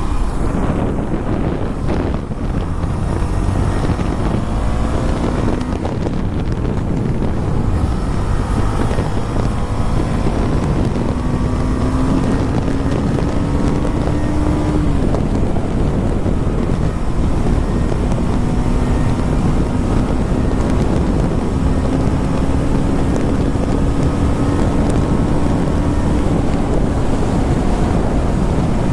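KTM Duke 250's single-cylinder engine pulling while riding, its pitch climbing slowly and dropping back at gear changes about halfway through and near the end. Heavy wind rush on the microphone runs underneath.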